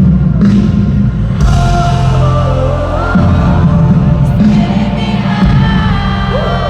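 Loud live band music through a concert PA, with heavy bass and drums under a wavering melody line.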